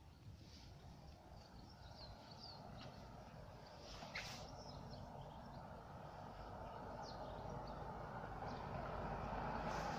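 Birds chirping over a low rumble that grows steadily louder: a train approaching a closed level crossing. There is a single sharp squeak or click about four seconds in.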